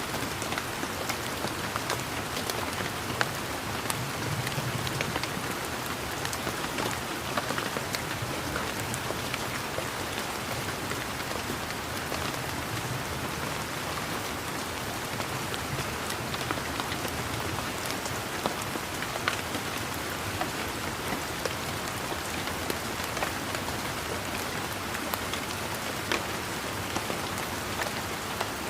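Steady rain pattering on garden leaves, with many individual drops ticking sharply through the constant hiss.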